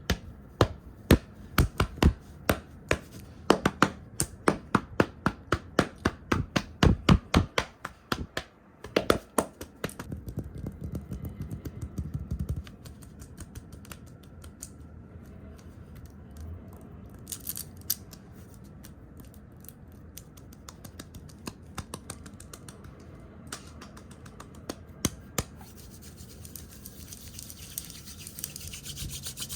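ASMR fingertip tapping and brushing on a camera lens close to the microphone. It opens with fast sharp taps, several a second, for about eight seconds. Then comes a burst of scratchy rubbing, quieter rubbing with scattered taps, and brushing that builds near the end.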